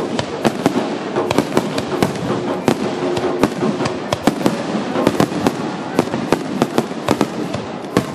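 A rapid barrage of aerial firework shells bursting: a quick, irregular run of sharp bangs, several a second, over a continuous crackle.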